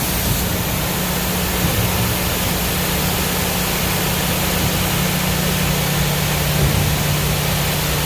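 Farm machinery running steadily: a constant low engine hum under an even rushing hiss.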